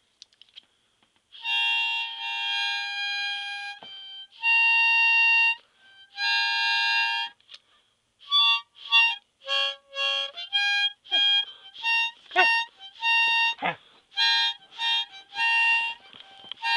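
Harmonica playing: three long held chords, then a run of short choppy notes. A few brief falling glides sound under the notes in the second half.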